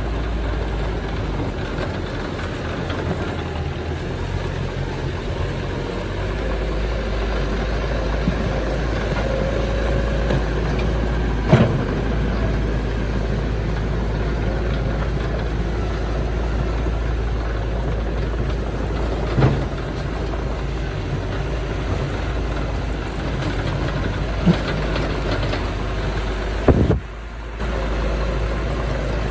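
Heavy earthmoving machinery engine running steadily with a low hum, with four short sharp clanks spread through it and a brief drop in level after the last.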